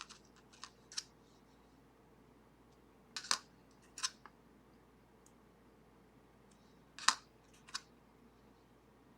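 Small metal lever-lock parts clicking and tapping as they are handled and set down, in three short clusters of sharp clicks a few seconds apart.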